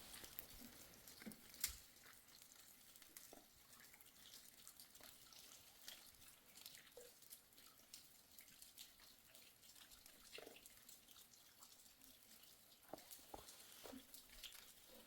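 Near silence with faint, irregular dripping of water and small taps, and one sharper click about a second and a half in.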